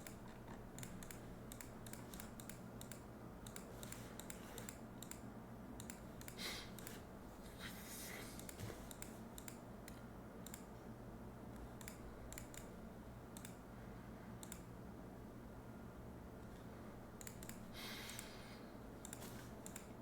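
Faint, irregular clicking at a computer's mouse and keys, over a low steady hum.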